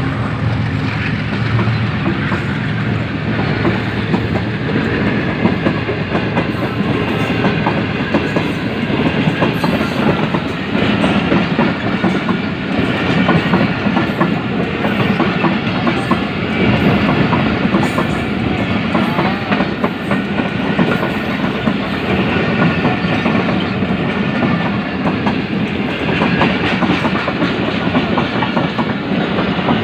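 A train running on the rails: a steady, loud rumble with the clatter of its wheels on the track.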